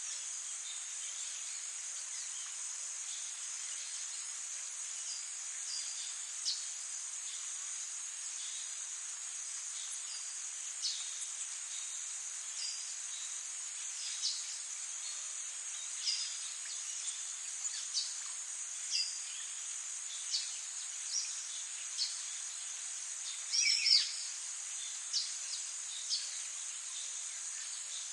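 Steady high-pitched chorus of crickets stridulating, with short, sharp downward bird chirps every second or two and a louder, longer bird call about 24 seconds in.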